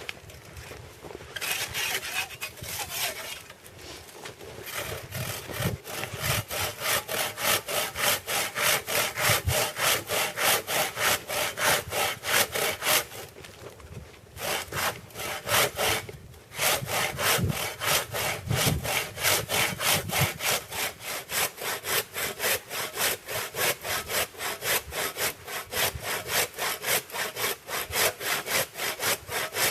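Hand saw cutting through a log in quick, even back-and-forth strokes, about two to three a second, with a couple of short pauses about halfway through.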